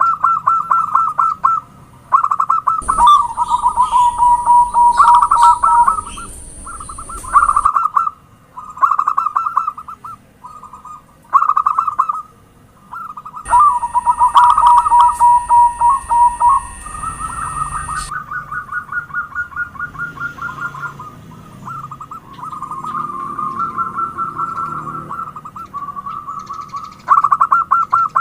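Zebra doves (perkutut) cooing: phrase after phrase of rapid, trilling short notes, with brief pauses between them. A steady high hiss comes in twice for a few seconds.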